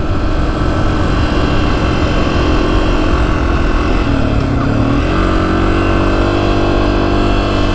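Honda CRF250F's single-cylinder four-stroke engine running steadily in fourth gear, with wind rushing over the helmet microphone. About four seconds in, the revs dip briefly and then climb back.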